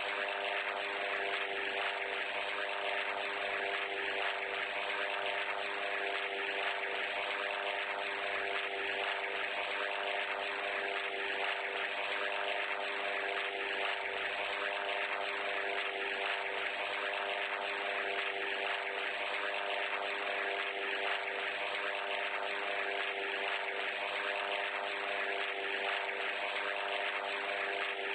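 A steady engine drone, even in level throughout, with several steady tones in it over a hiss.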